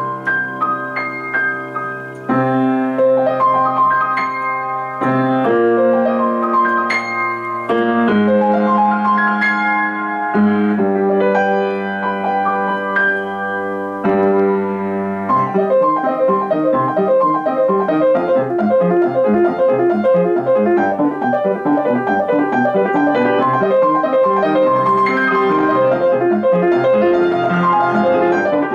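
Solo piano playing a classical-style composition. Held chords change every second or two at first, then about halfway through it breaks into a fast, even stream of repeated notes.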